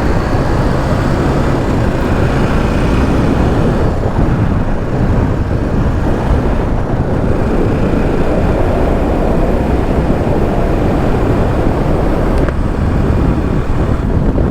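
A BMW G 310 GS single-cylinder motorcycle running steadily at road speed, with wind rushing over the helmet-mounted microphone.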